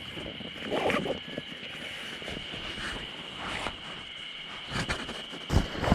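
A steady high insect drone, with scattered irregular knocks and two heavier thuds near the end.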